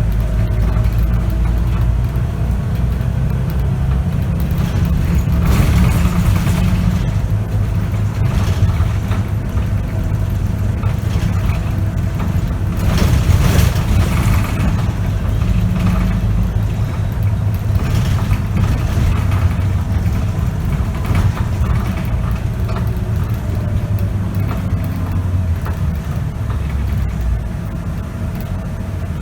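Scania K94UB city bus's diesel engine and ZF automatic gearbox heard from inside the bus while it drives, the engine note stepping up and down as it pulls and changes gear, with a few louder rushes of road and engine noise along the way; it eases off slightly near the end.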